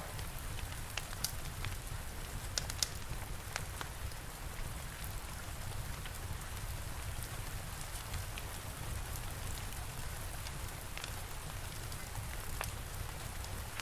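Steady rain with the scattered sharp pops of a crackling fire, more of them in the first few seconds.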